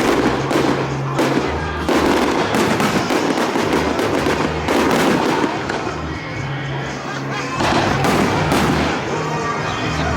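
Fireworks display: repeated bursts and crackle, with sharp loud reports about two seconds in and near the end. Music with steady low notes plays underneath.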